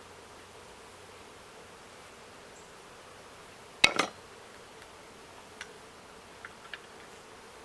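Honeybees buzzing in a faint, steady hum. About four seconds in there is a sharp double knock, followed by a few light ticks.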